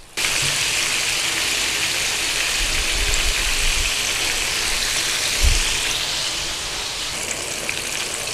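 Pieces of fish dusted in tempura flour frying in hot oil in a pan: a dense, steady sizzle that starts suddenly.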